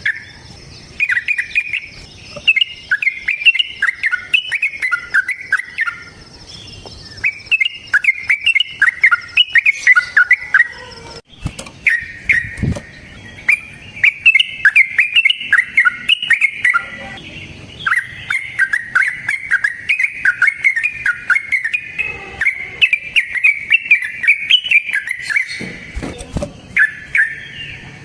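Yellow-vented bulbul (trucukan) singing its long rapid 'ropel' song: fast runs of bubbly chattering notes in several long bursts with short pauses between them. A faint steady high tone sits under the first half.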